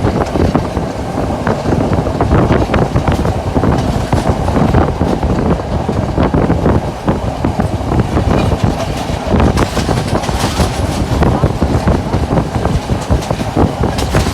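Moving train running on rails: a steady rumble with many rapid wheel clicks over the track.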